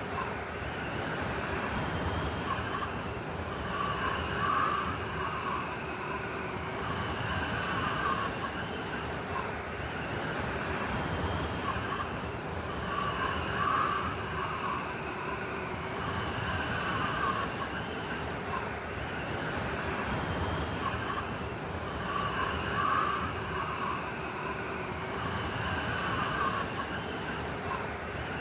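Blizzard wind blowing steadily, with whistling gusts that rise and fall in a pattern repeating about every nine seconds.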